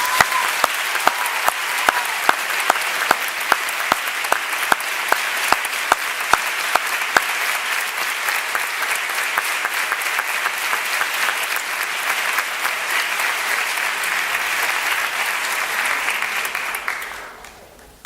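Audience applauding, with single loud claps standing out at about three a second for the first seven seconds. The applause dies away near the end.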